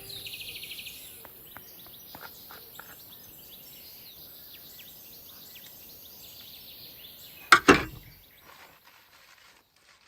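Faint outdoor ambience with a brief fast trill at the start and scattered small chirps, then two loud knocks in quick succession a little past seven seconds in.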